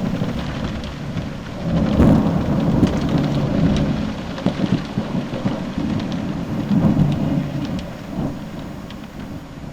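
Thunder rumbling in rolling waves over steady rain, with raindrops ticking close by. The rumble swells about two seconds in and again about seven seconds in, then fades.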